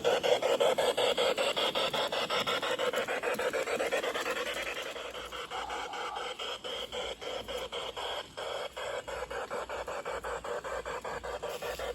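Aristo-Craft 0-4-0 G-scale model locomotive running on garden railway track: a steady motor and gear whine with rapid, even clicking of about five a second from the wheels on the track, a little quieter from about four seconds in.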